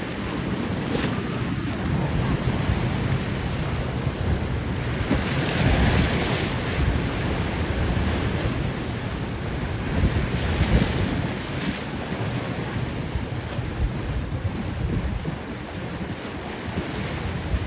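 Wind buffeting the microphone over the rush of waves and surf, with two louder swells about a third and two thirds of the way through.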